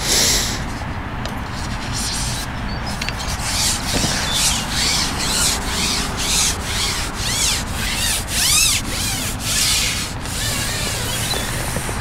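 A run of rubbing swishes as a carbon match-fishing pole is shipped out to lay in maggots from the cad pot. The swishes come thickest from about four to ten seconds in, then die away.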